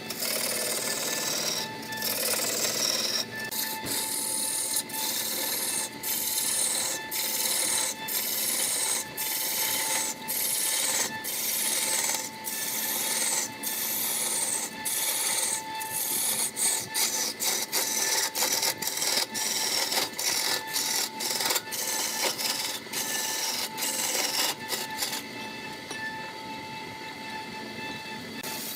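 A wood lathe spins a large log blank while a hand-held turning tool cuts into it, making a repeated rasping scrape with each pass and throwing off shavings. The cutting stops near the end.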